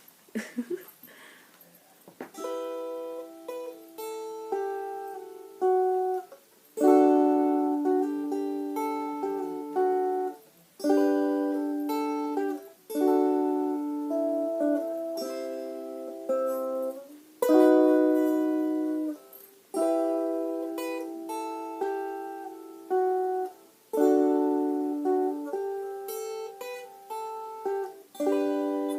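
Ukulele playing an instrumental intro: after a couple of quiet seconds, chords are struck about every two seconds and left to ring and fade.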